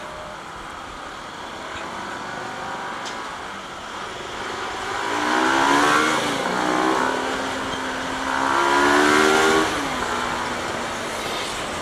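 Bajaj Pulsar NS200's single-cylinder engine accelerating twice, its pitch rising each time, over a steady rush of riding wind noise.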